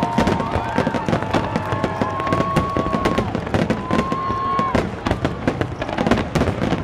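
Aerial fireworks going off in a rapid barrage: shell bursts and crackling follow each other so closely that they run together into one dense volley.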